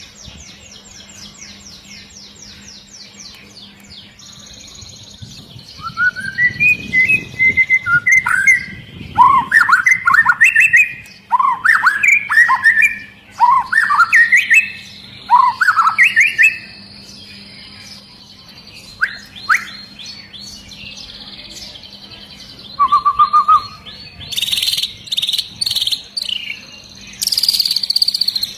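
White-rumped shama singing: a run of loud, clear whistled notes that slide up and down in pitch, with fast rattling trills near the start and again near the end.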